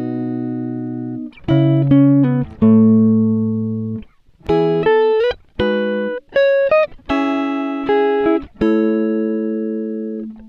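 Background music: a plucked guitar playing a slow run of sustained chords, each ringing for about a second before the next.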